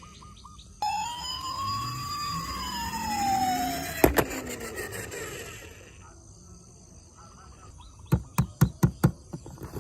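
A toy emergency vehicle's siren wailing, one slow sweep up and then down in pitch. It starts suddenly about a second in and cuts off with a knock at about four seconds. Near the end comes a quick run of about six sharp clicks.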